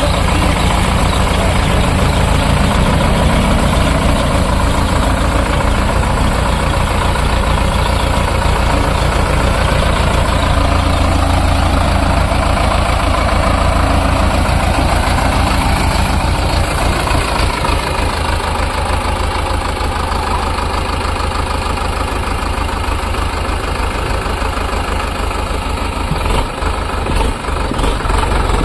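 Sonalika DI 750 tractor's diesel engine running steadily.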